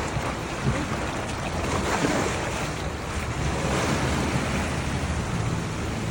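Sea water washing around a small tour boat, with wind buffeting the microphone and a low, steady motor hum underneath.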